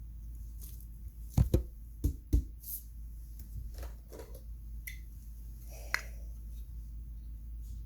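Toys being handled and knocked against a surface: four sharp knocks in quick succession about a second and a half in, then softer clicks and one more sharp click near six seconds, over a steady low hum.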